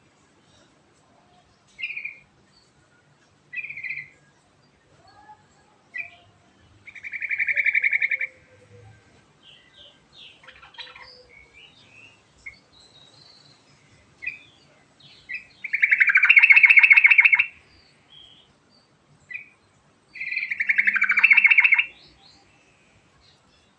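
Yellow-vented bulbul (trucukan) singing: short chirps, then three rapid rolling trills, the loudest about two-thirds of the way through.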